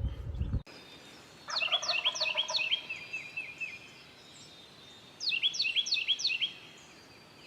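Eastern wild turkey gobbling twice: a rapid run of falling notes about a second and a half in, and a shorter one about five seconds in.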